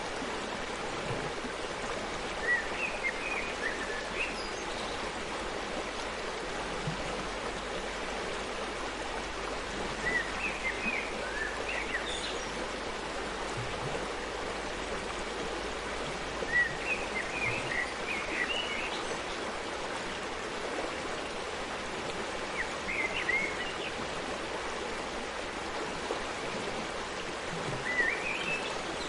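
Forest stream flowing steadily, with short high-pitched sounds in brief clusters every six seconds or so.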